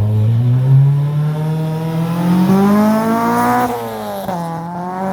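Car engine accelerating hard, its pitch climbing steadily for about three and a half seconds, then dropping sharply at a gear change before pulling again.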